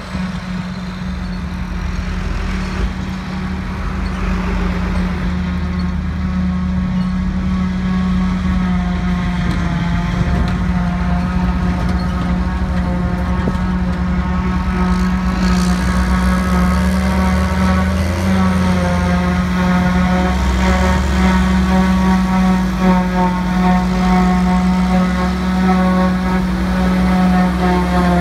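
Heavy diesel farm machinery at a grass-silage harvest running steadily, with a higher whine setting in over the engine and the whole sound growing gradually louder as the machine comes closer.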